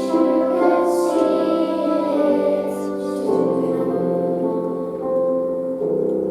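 Children's choir singing the closing bars of a song with piano accompaniment, holding long sustained chords.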